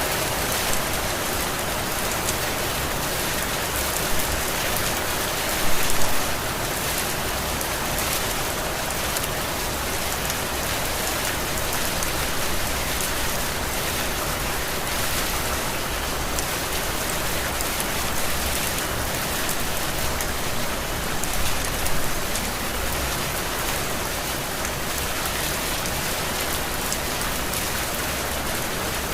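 Heavy rain falling steadily, swelling briefly louder a few times, most of all about six seconds in.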